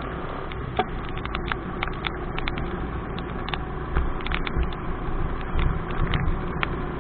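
Motorcycle ride in the rain: steady engine and road rumble, with raindrops tapping irregularly on the camera.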